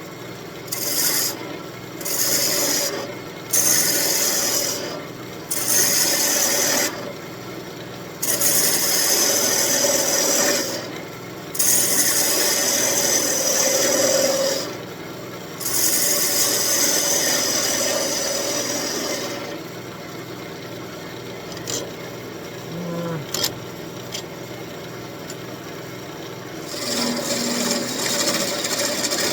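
Turning tool cutting the end of an elm spoon blank on a running wood lathe: repeated hissing cutting passes lasting one to three seconds each, over the lathe's steady hum. The cutting stops for several seconds after about 19 seconds, then starts again near the end.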